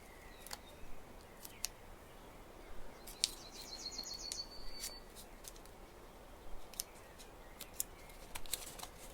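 Thin Kami origami paper being creased and folded by hand, giving scattered sharp crinkles and crackles, with a brief high trill about three seconds in.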